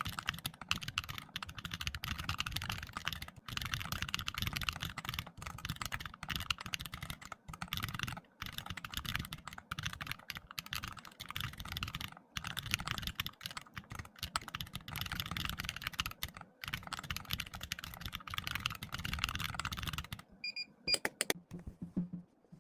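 Fast typing on a computer keyboard: a dense run of keystroke clicks with short pauses, stopping about twenty seconds in. A few short high beeps and clicks follow.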